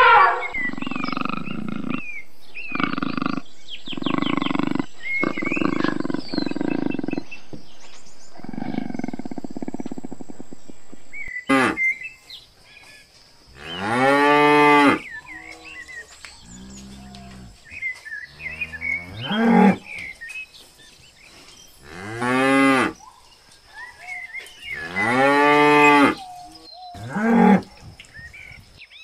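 African buffalo bellowing: a series of about six long, low calls like a cow's moo, each rising and then falling in pitch, a few seconds apart. These fill the latter part. In the first third, a run of rough, noisy sounds comes in short stretches with brief gaps.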